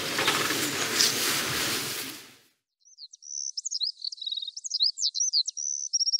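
Outdoor background noise that fades out about two seconds in, followed by birdsong: many quick, high-pitched chirps, whistles and short trills from small birds.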